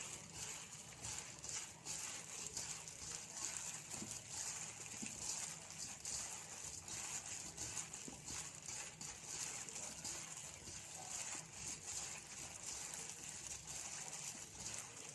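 Many snail shells clicking and clattering against each other as a batch of salted golden apple snails is tossed by hand to mix in seasoning, a rapid irregular clatter.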